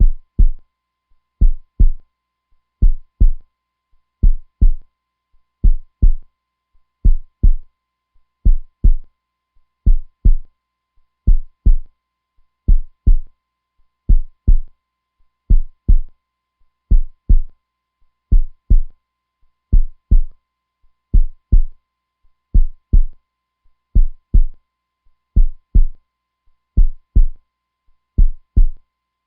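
Heartbeat: steady low lub-dub double thumps, one pair about every second and a half, in an even unbroken rhythm.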